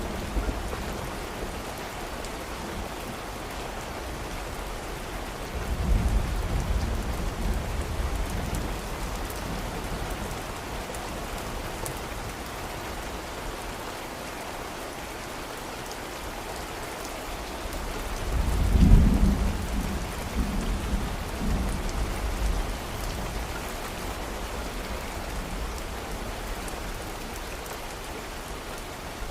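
Steady rain with distant thunder rumbling twice, a low roll about six seconds in and a louder one at about nineteen seconds.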